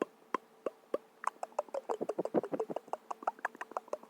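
Sharp clicks about three a second, breaking about a second in into a rapid, uneven flurry of clicks and taps, over a faint steady hum.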